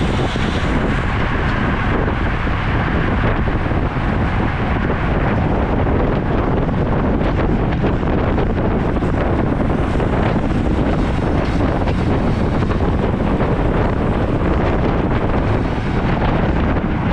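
Steady wind noise buffeting the microphone of a camera carried on a moving road bicycle.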